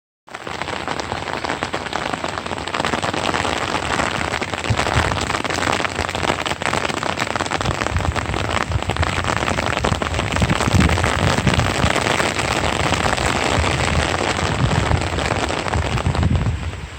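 Rain falling steadily, a dense spatter of many individual drop hits.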